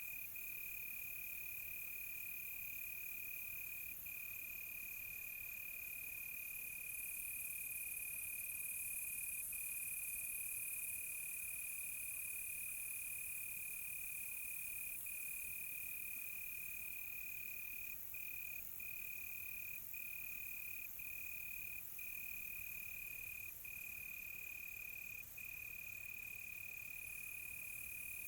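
Crickets trilling in one unbroken, steady high pitch over a fainter, higher insect hiss. The main trill drops out for an instant several times, more often in the second half.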